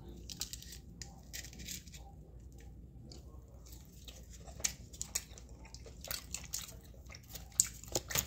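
A person biting into and chewing a crisp-crusted, hushpuppy-battered fish stick dipped in ranch sauce, with soft crunches and mouth noises and a few sharper clicks about halfway through and near the end.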